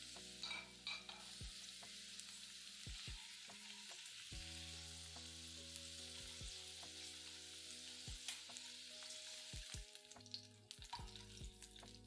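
Faint sizzling of okra pieces shallow-frying in coconut oil in a nonstick wok, with scattered light clicks of a utensil against the pan. The sizzle thins out about ten seconds in.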